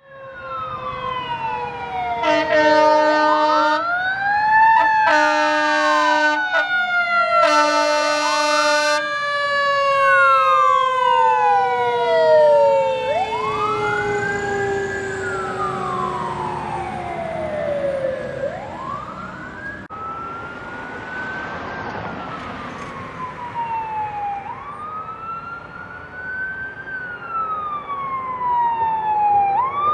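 Fire engine sirens wailing, two rising and falling tones overlapping. Three long horn blasts sound in the first ten seconds. A rush of truck noise swells about two-thirds of the way through.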